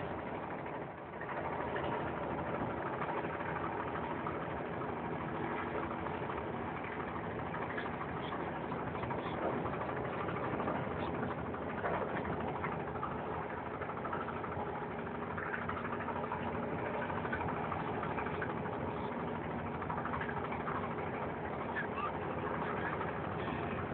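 Steady drone of boat engines from the spectator fleet on the water, with no single engine standing out, heard through a mobile phone's microphone.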